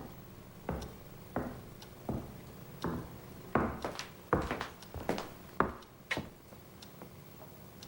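A series of about a dozen short knocks, evenly spaced at first, then quicker and louder in the middle before stopping.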